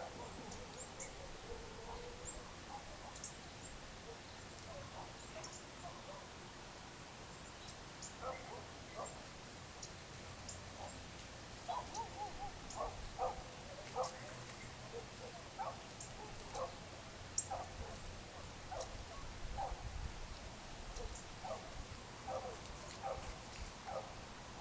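Birds calling at dusk: short, repeated mid-pitched calls that become more frequent about a third of the way in. Faint high chips come and go over a low background rumble.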